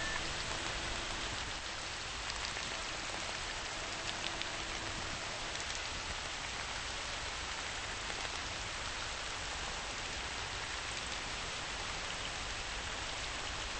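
Steady rain falling, an even hiss with a few faint drip-like ticks.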